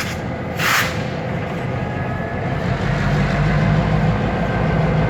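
Freight train locomotive engine running, its low steady hum growing louder from about three seconds in as it draws closer. A short hiss sounds just under a second in.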